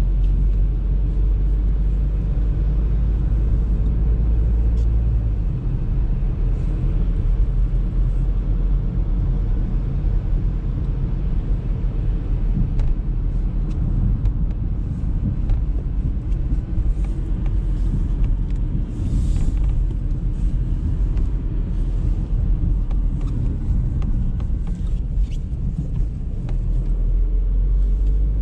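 Audi A3 driving on a snowy road: steady low road and engine rumble, with scattered faint ticks and a brief hiss a little past the middle.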